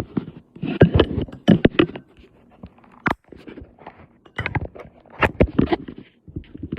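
Clusters of knocks, clicks and clinks as the 3D printer is handled and turned on its side.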